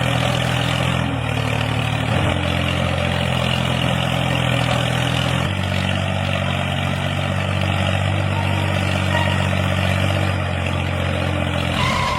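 An engine running steadily at idle, a low, even hum that shifts slightly in pitch a few times.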